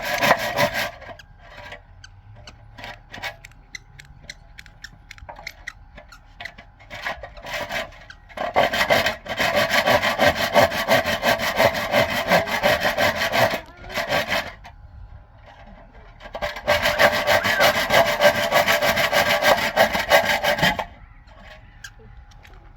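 A saw cutting through wood in several bouts of quick back-and-forth strokes, with pauses between the bouts.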